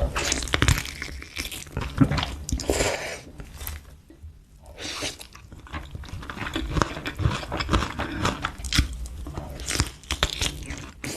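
A person chewing and crunching food close to the microphone, in dense irregular bites, with a brief pause about four seconds in.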